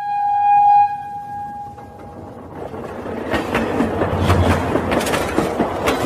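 A train horn sounds one steady, held note for about two and a half seconds. It then gives way to a train running on rails with a rapid clickety-clack and a low rumble, as the toy train circles its track.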